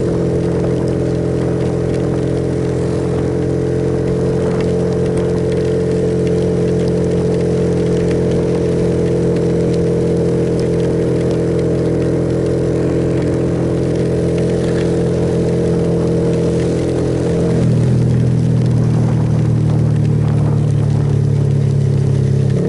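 Suzuki Yes motorcycle's single-cylinder engine running at a steady cruising speed over a steady hiss. About three-quarters of the way through, the engine note drops lower and gets a little louder.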